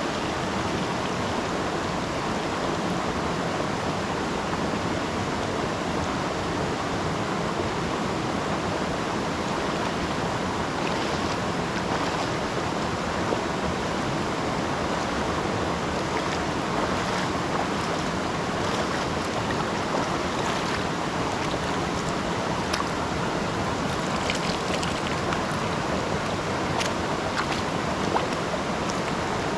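River water rushing steadily, with a few brief, faint sharp sounds in the second half.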